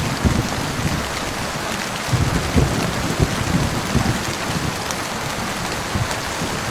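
Heavy rain falling steadily, with scattered dull thumps of large drops striking a surface close by.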